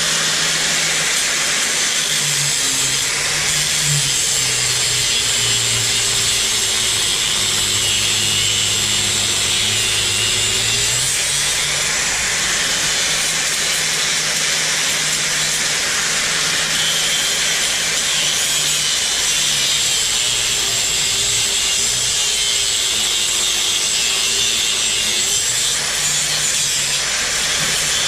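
A power tool running continuously under load, cutting into the wood-and-steel beam with a steady, hissing grind. Its motor pitch sags and recovers twice, once in the first half and once past the middle.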